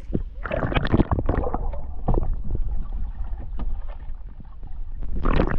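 Kayak paddling on a river: irregular splashes of paddle strokes and moving water, loudest near the start and again near the end, over a steady low rumble.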